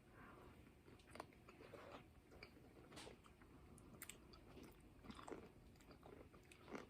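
Faint chewing and biting on a pickle, with scattered short crunchy clicks.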